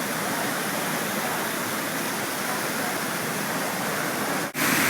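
Floodwaters of the Lester River rushing through its rocky channel, a steady whitewater roar. It cuts out for a split second near the end and returns a little louder.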